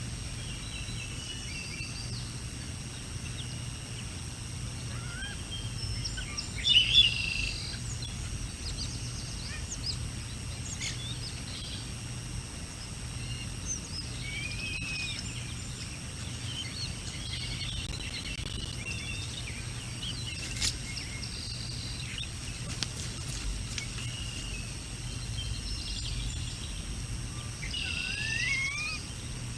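Wild birds chirping and calling now and then over a steady low background noise, with a louder short call about seven seconds in and a few rising calls near the end.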